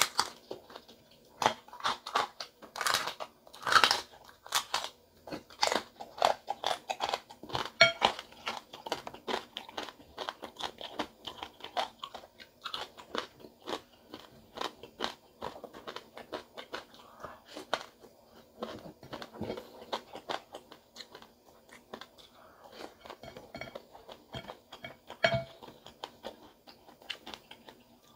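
Close-up crunching and chewing of crispy fried pig tail: a dense run of crisp bites and crackles with chewing mouth sounds, loudest in the first several seconds.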